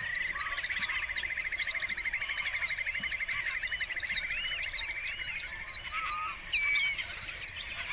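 Bird chorus with many overlapping short chirps and whistles, over which a fast, even trill runs for about five seconds before fading.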